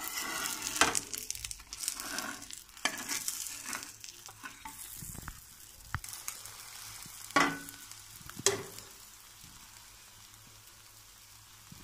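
Egg omelet frying in oil in a pan just after being turned, a steady sizzle with a few sharp clicks scattered through it. The sizzle grows fainter over the last few seconds.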